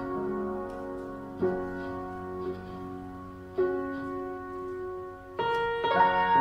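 Piano playing a slow ballad introduction: sustained chords struck about every two seconds, each left to ring and fade.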